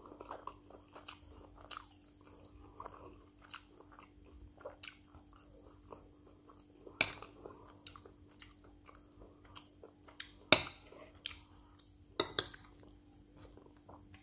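Close-up chewing and mouth sounds of a person eating rice and stew, with many small wet ticks and a few louder sharp clicks, the loudest about ten seconds in.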